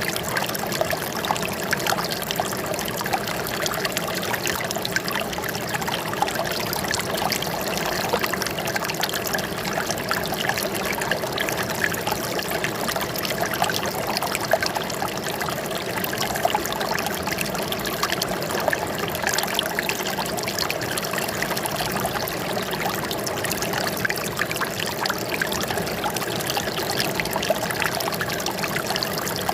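Running water trickling and splashing steadily, like a small stream or water flowing over rocks.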